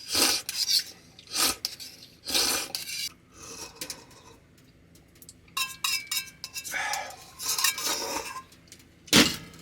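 Metal utensils scraping and clinking against metal cookware, off and on, with a short run of ringing metal clinks about six seconds in and a louder knock near the end.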